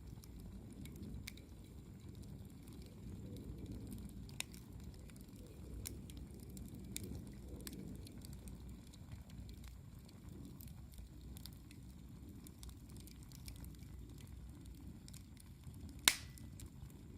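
Wood campfire burning with scattered crackles over a low steady rumble, and one loud sharp pop near the end.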